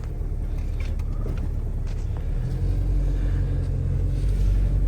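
Jeep engine running at low speed with a steady low rumble as the vehicle pulls forward during slow maneuvering.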